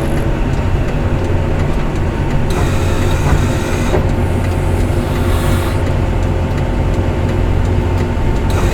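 Heavy snow-removal vehicle's diesel engine running steadily: a continuous low drone with a faint steady whine above it, and a brief hiss about two and a half seconds in.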